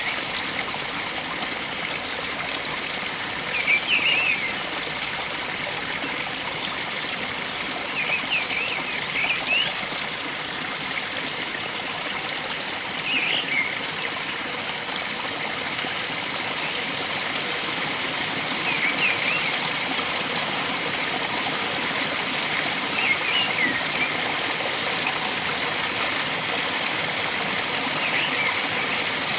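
Steady rush of flowing stream water, with a bird giving short bursts of chirps every four or five seconds, about seven times.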